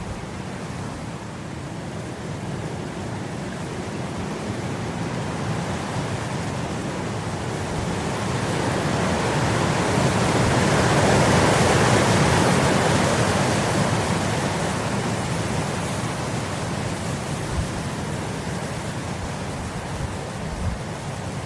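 Wind blowing across grass: a steady rushing that swells into a stronger gust about halfway through and then eases off, with a couple of faint knocks near the end.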